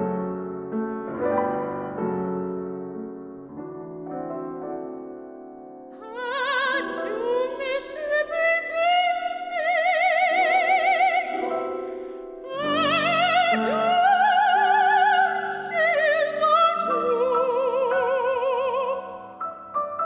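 Soprano singing an opera aria with wide vibrato over piano accompaniment. Solo piano opens, the voice comes in about six seconds in, breaks off briefly in the middle, then sings on until just before the end.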